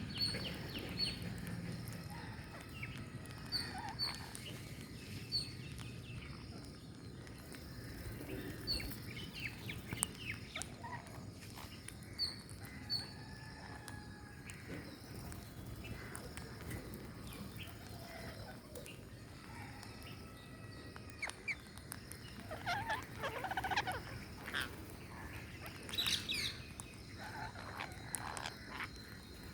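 Parrots chirping and calling: a run of short, high chirps with scattered louder squawks, growing busier near the end.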